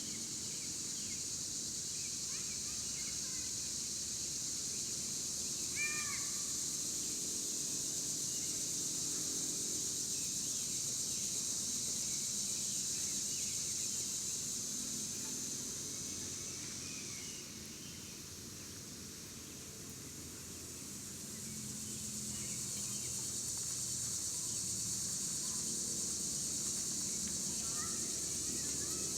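Outdoor ambience: a steady high-pitched insect chorus that fades away for a few seconds just past the middle and then returns, with scattered short bird chirps and calls over it.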